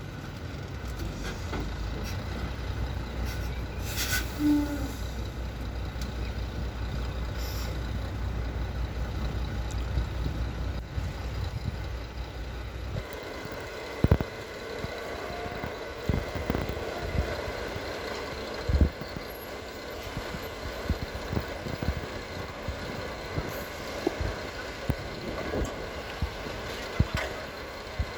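Heavy truck engine running with a steady low rumble and a short burst of hissing air about four seconds in. About halfway through the deep rumble drops away, leaving lighter machine noise with scattered sharp knocks.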